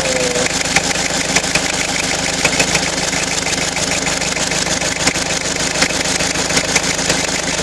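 Car engine idling steadily at full operating temperature after about half an hour of running, with light, irregular ticks over the hum.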